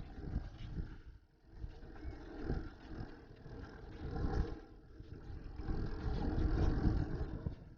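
Wind and road rumble on a small action camera's microphone during a bicycle ride, swelling and fading in irregular gusts and loudest near the end.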